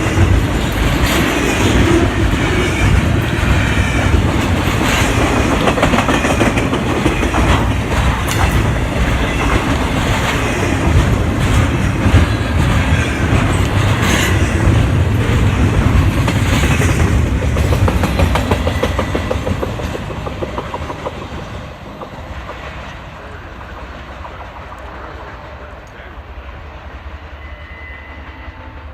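Norfolk Southern freight train's cars rolling past, with wheels clicking steadily over rail joints. The sound fades away about twenty seconds in to a much quieter rumble.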